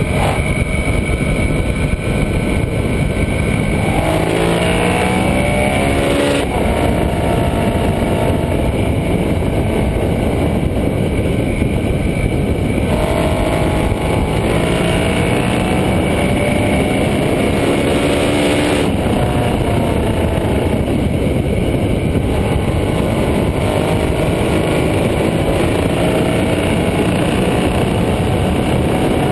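KTM 1290 Super Duke R's V-twin engine under hard acceleration, its pitch rising repeatedly as it pulls through the gears, over a loud rush of wind noise. The sound changes abruptly a few times.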